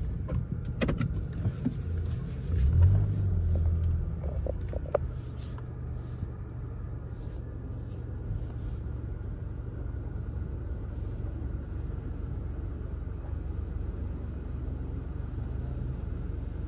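Car engine and low rumble heard from inside the cabin as the car moves slowly forward, louder in the first few seconds and then settling to a steady low hum. A few light clicks and knocks in the first five seconds.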